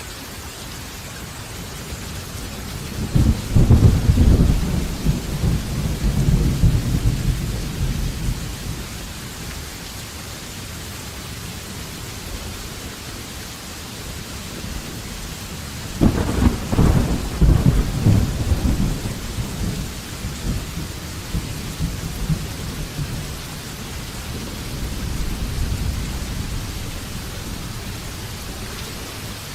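Thunderstorm: steady rain with two loud rolls of thunder, the first building about three seconds in and rumbling for several seconds, the second breaking with a sharp crack a little past halfway and rolling on, followed by a softer distant rumble near the end.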